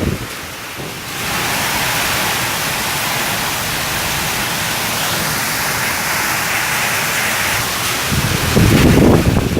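Heavy rain pouring down in a storm, a steady loud hiss that swells about a second in. A low rumble comes near the end.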